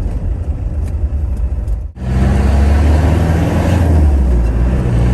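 Land Rover diesel engine running. About two seconds in it cuts to a louder, steady deep hum.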